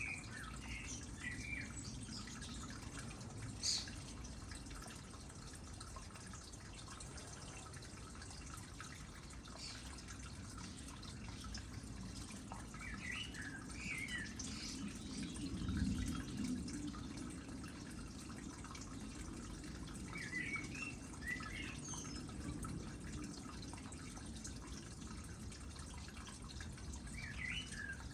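Water trickling steadily into a small pond, with short bursts of bird chirping near the start, about 13 seconds in, about 20 seconds in and near the end. A single sharp drip or click sounds about 4 seconds in.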